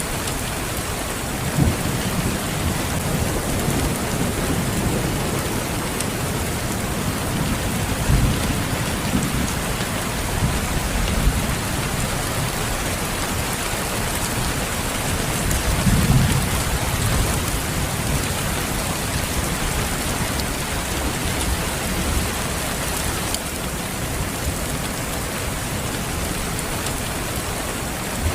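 Steady rain falling, with low rolls of thunder rumbling through it, the strongest about 16 seconds in.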